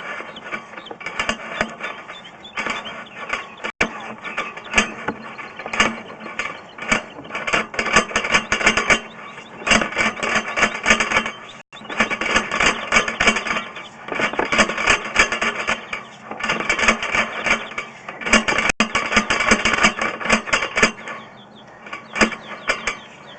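Sewer inspection camera's push cable being fed down a cast iron sewer pipe: rapid, irregular clicking and rattling of the cable and reel, heavier through the middle.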